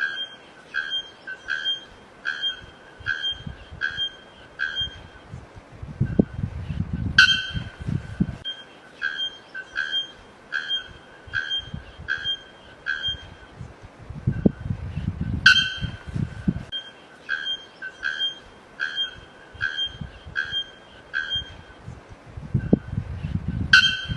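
A bird's short whistled note, repeated about every three quarters of a second in runs. Each run is opened by a louder, sharper note, and the cycle comes round about every eight seconds, with low rumbling between runs.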